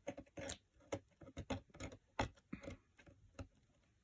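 Irregular small clicks and scratches, several a second: hardened hot-glue strings being picked and scraped off a cardboard slide.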